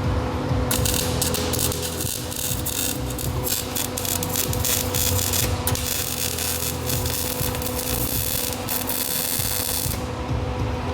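Arc welding on a steel mount: the arc crackles and hisses in runs, starting about a second in and stopping about a second before the end, with brief breaks between runs. A steady low hum runs underneath.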